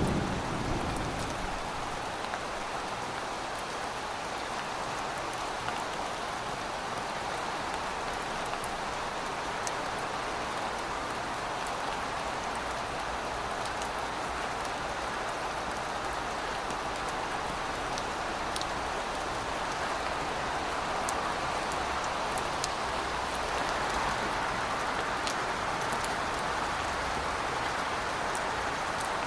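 Steady rain falling, a dense even hiss with scattered sharp drop ticks. The tail of a low thunder rumble dies away about a second in.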